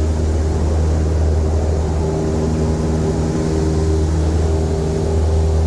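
Small single-engine propeller airplane's piston engine and propeller making a steady, even drone.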